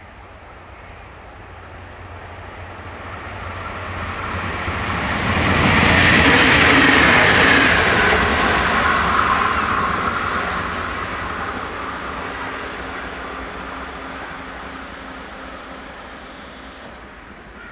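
A DM '90 diesel multiple unit passes the level crossing. Its sound swells to a peak about six to eight seconds in, with a whine that falls in pitch as the train goes by, then slowly fades.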